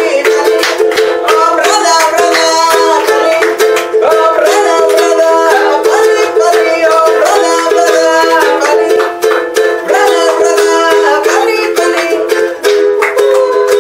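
Accordion playing a tune: a melody moving over steadily held chords.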